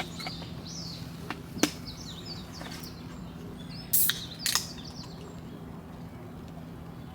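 Small birds chirping in quick high calls over the first few seconds, with a sharp crack about one and a half seconds in and a louder pair of cracks around four seconds in.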